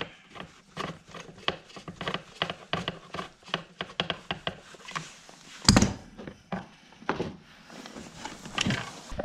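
Handling noises as the oil drain is finished and the saw and bucket are moved: a run of small clicks, knocks and scrapes, with one heavy thump a little before six seconds in.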